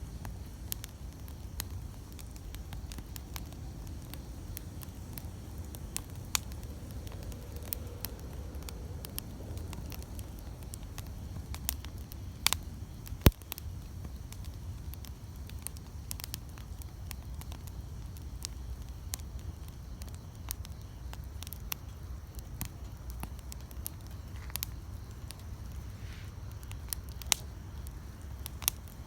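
Wood campfire burning, with frequent sharp crackles and pops over a low steady rumble; the loudest pops come about halfway through.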